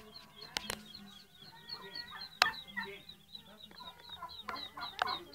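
Birds clucking and calling over a high chirp repeated about three times a second, with a few sharp knocks; the loudest knock comes about halfway through.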